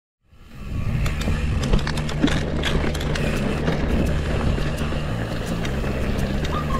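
Mountain bike ridden over a dirt and rock trail, heard through a bike-mounted action camera: wind rumbles steadily on the microphone while sharp clicks and rattles come from the bike and its tyres. It fades in about half a second in.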